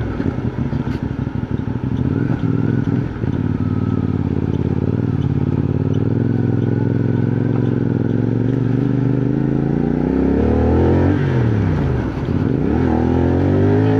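CFMoto 450 NK parallel-twin motorcycle engine running under way, a steady note that near the end drops and climbs back up as the rider rolls off and accelerates again.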